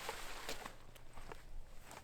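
A few short, sharp knocks and clicks, four or five in the space of about a second, over a quiet outdoor background.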